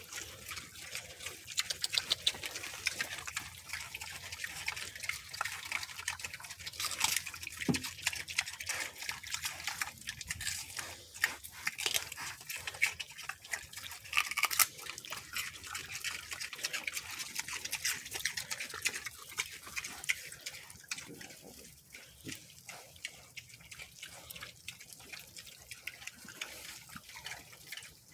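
Mini pigs chewing celery: a steady run of quick crunches and smacks.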